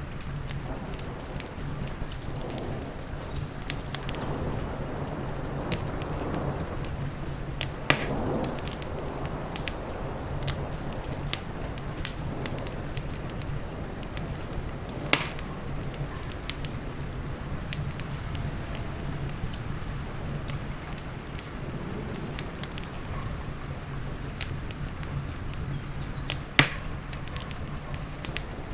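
Wood fire crackling, with many small sharp pops over a steady low roar; three pops stand out louder, about eight seconds in, about fifteen seconds in, and near the end.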